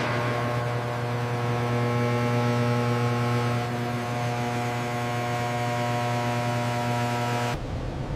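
Steady electric or machine hum, a low tone with many overtones, cutting off suddenly about seven and a half seconds in.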